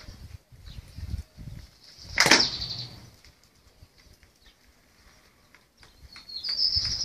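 A sudden loud, brief sound about two seconds in, then a small bird chirping in a quick high trill near the end.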